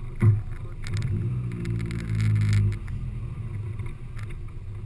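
Car engine running at low speed. There is a thump about a quarter second in, then the engine note gets louder under throttle for about two seconds and drops back suddenly as the throttle is lifted.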